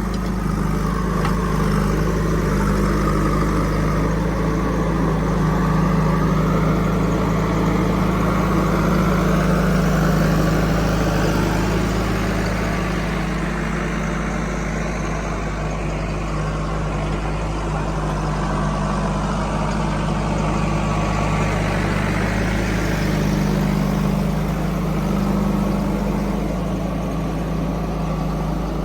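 Diesel engine of heavy machinery running steadily, with small changes in load partway through.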